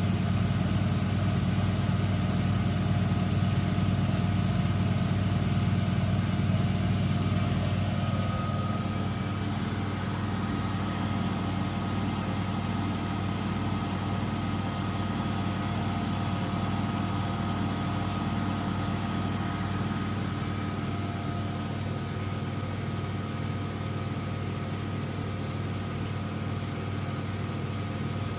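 Eudora Supernova EU 1001 washing machine running steadily with a constant motor hum and whine, consistent with its final spin at 1100 rpm. About a quarter of the way in it gets a little quieter and a new higher whine sets in.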